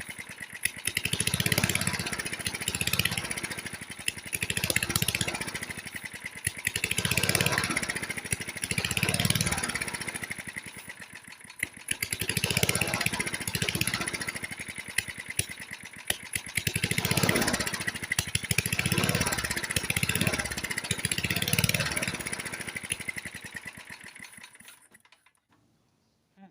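Old lawnmower's 1972 Briggs & Stratton engine running on gasoline, revving up and falling back over and over every couple of seconds, then dying about 25 seconds in. The surging and stalling come from the engine not pulling gas up from the carburetor.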